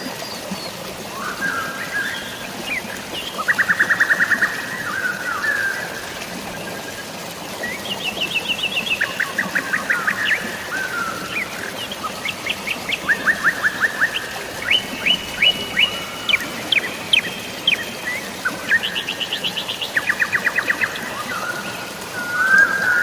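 Forest birds calling back and forth, mostly in fast trills of short, evenly spaced notes with a few chirps between, over a steady hiss of drizzling rain and flowing water.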